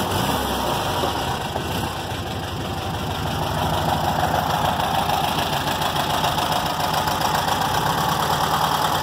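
Volkswagen Fusca (Beetle) air-cooled flat-four engine idling steadily just after being started.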